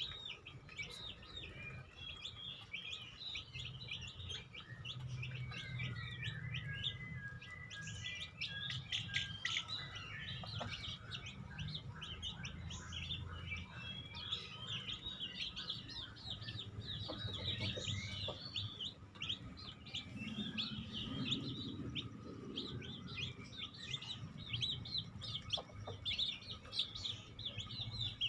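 Many small birds chirping and tweeting continuously in quick, overlapping short calls, over a low steady hum.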